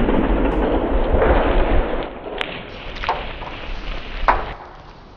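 Tail of a pumpkin explosion: a loud rumbling hiss that dies away over about two seconds, then a few scattered sharp cracks and thuds, fading out about four and a half seconds in.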